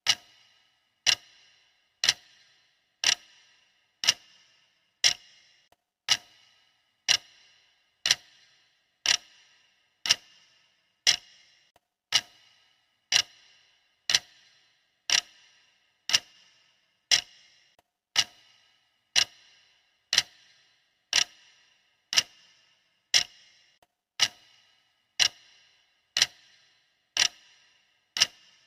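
Clock-style ticking of a countdown timer: a sharp tick about once a second, each with a brief ringing tail, perfectly even.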